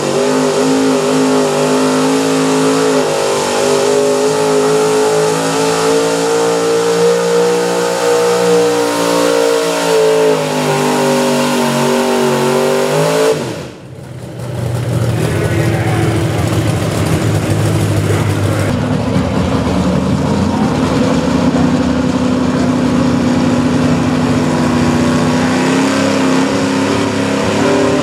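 Pulling truck's engine running at high revs under load, its pitch wavering as it pulls. It cuts away sharply about halfway through, then a high-revving engine picks up again.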